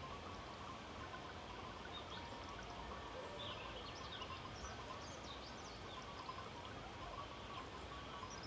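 Steady outdoor ambience of wind with a small bird giving a run of short, high chirps a few seconds in.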